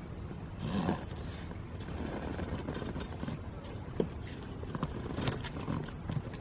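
A steady low mechanical hum, with scattered sharp knocks and clicks and a brief rustle about a second in.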